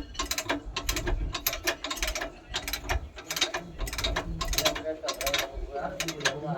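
Hand tools clicking on metal while a Tata truck's clutch is being worked on. The sharp clicks come several a second in uneven runs, like a ratchet wrench being swung on bolts, over a low rumble.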